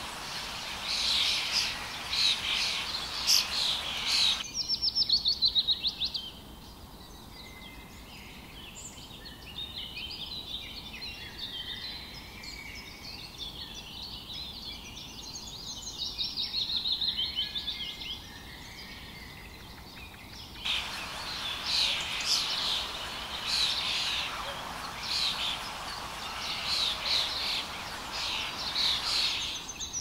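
Many small birds chirping and singing over a steady hiss, with a loud rapid trill about five seconds in. The hiss and the dense chirping drop out abruptly about four seconds in, leaving thinner, quieter chirps. They return just as abruptly a little past twenty seconds.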